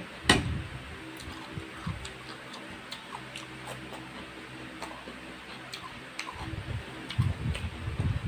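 Close-miked mouth sounds of a person eating stir-fried instant noodles by hand: wet clicks and smacks of chewing, with a louder thump about a third of a second in and heavier chewing near the end, over a steady low hum.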